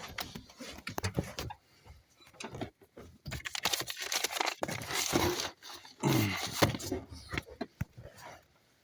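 Handling noise: irregular rustling, clicks and knocks, with a faint jangle like keys.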